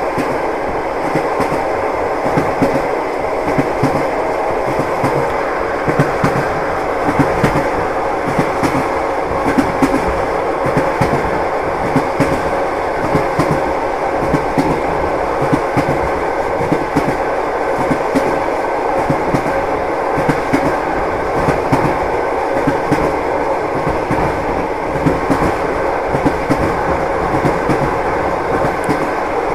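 Passenger train running across a steel truss railway bridge, heard from inside the carriage: a steady rumble of wheels on rail with frequent, irregular sharp clicks and rattles.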